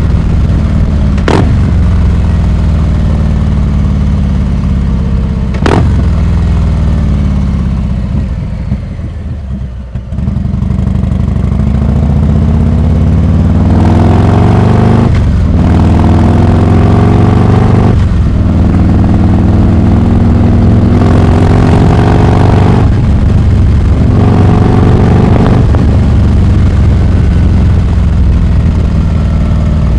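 Harley-Davidson Heritage Classic 114's Milwaukee-Eight V-twin through a Rinehart exhaust: the engine note falls as the bike slows, with a couple of short breaks. Then it pulls away again, the pitch climbing in steps through several gear changes.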